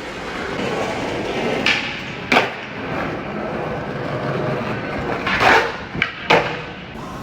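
Skateboard wheels rolling on hard ground, with five sharp wooden knocks of the board hitting the ground: two about two seconds in and a quick cluster of three near the end.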